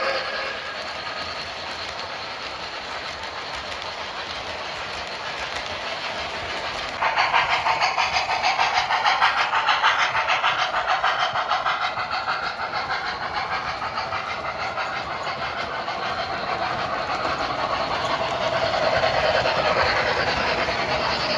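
Sound-system steam chuffing from an MTH Premier O-scale Long Island Rail Road H10 steam locomotive with ProtoSounds 2, over a steady rolling hiss. About a third of the way in, a louder, fast, even chuff starts and keeps going.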